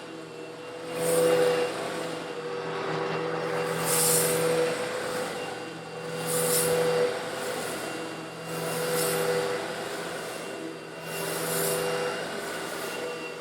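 Eureka vacuum cleaner running steadily while sucking up small coarse stone granules: a motor hum under a gritty, hissing rattle that swells about every two and a half seconds.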